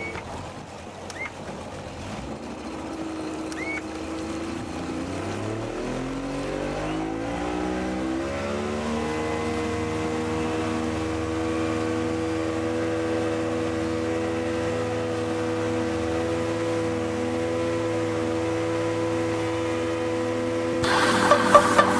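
Motorboat engine towing a banana boat, speeding up steeply about five seconds in and then running steadily at speed. Dance music comes in near the end.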